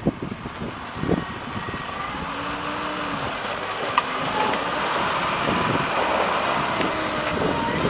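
Off-road vehicle engine running hard under load while trying to drive free of snow and ice; the noise builds about two seconds in and stays up. A sharp click about four seconds in.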